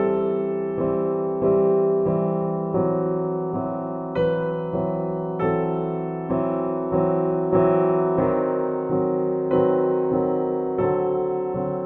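Background music: a piano playing an even, gentle run of notes, about one and a half a second, over sustained chords.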